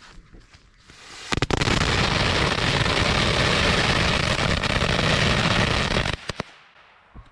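A string of firecrackers going off in a rapid, unbroken crackle for about five seconds, starting a little over a second in, with a few last scattered pops after the main burst stops. It is very loud.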